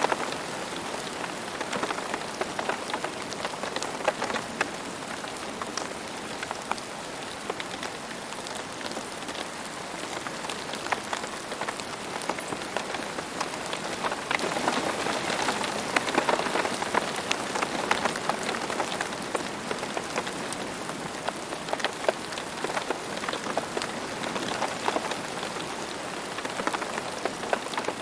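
Steady rain falling, a dense hiss of drops with many sharper individual drop hits scattered through it, swelling a little about halfway through.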